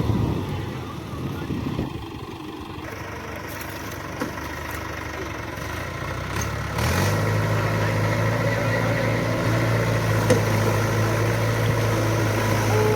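Tractor diesel engine running, rough and uneven at first, then settling into a steady low drone from about halfway through.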